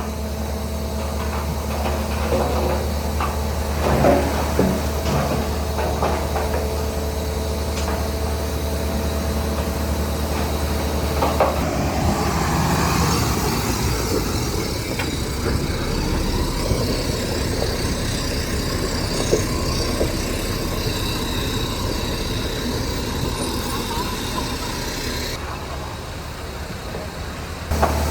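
Heavy diesel construction machinery running, with metallic clanks and knocks in the first few seconds. About twelve seconds in, the steady low engine hum gives way to a rising engine note and a rougher, fuller noise.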